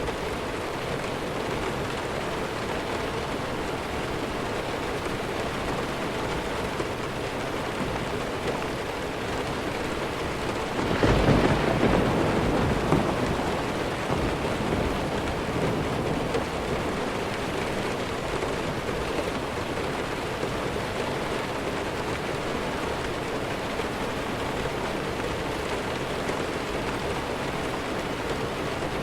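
Steady rain falling, with one loud clap of thunder about eleven seconds in that rumbles and fades away over a few seconds.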